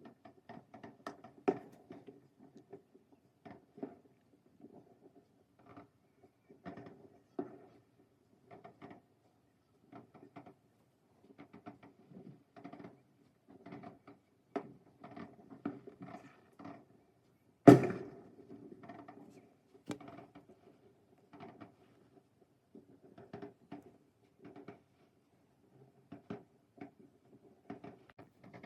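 Scattered firework pops and crackles at irregular intervals, with one much louder sharp bang about eighteen seconds in.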